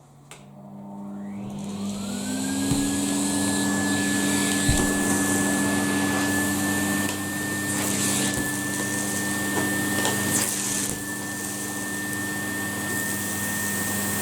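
Numatic Henry vacuum cleaner switched on: the motor spins up with a rising whine over about two seconds, then runs steadily. A few sharp knocks break in now and then.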